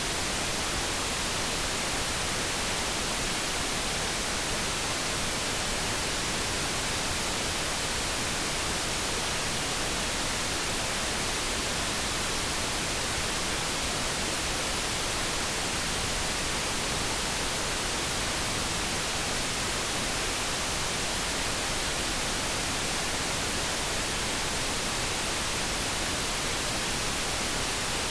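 Steady generated light brown noise: an even, unbroken hiss with no tone, rhythm or change in level.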